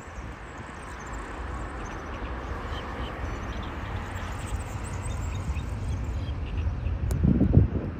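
Jet airliner taking off, its engine roar at takeoff power building steadily as it accelerates down the runway. A sudden low blast, like a gust of wind on the microphone, comes near the end.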